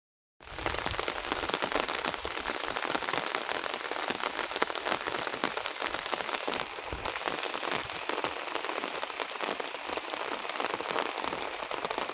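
Steady heavy rain, a dense patter of many drops hitting surfaces.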